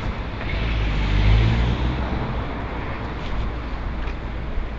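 Road traffic: a vehicle passing close by, loudest about a second in, then settling into steady street traffic noise.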